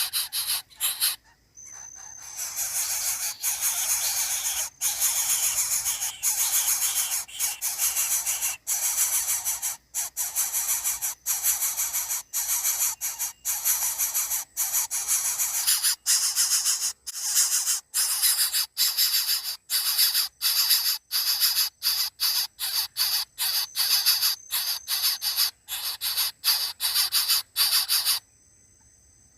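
A loud, high hissing buzz broken by short gaps about once a second, coming faster in the second half, then cutting off suddenly near the end.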